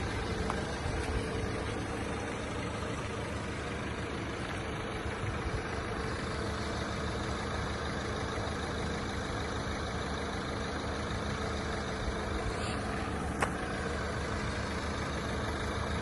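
Renault Master 2.3-litre diesel van engine idling steadily, with a single light click near the end.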